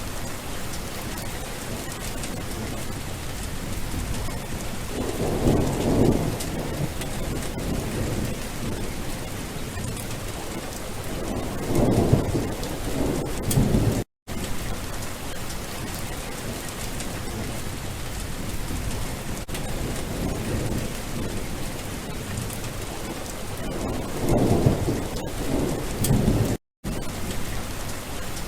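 Steady heavy rain in a thunderstorm, with three low rolls of thunder: about five seconds in, around twelve seconds, and near twenty-four seconds. The sound cuts out to silence for a moment twice.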